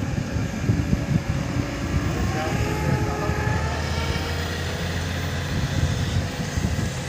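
A heavy machine's engine running steadily with a low hum, with faint whining tones that glide in pitch partway through.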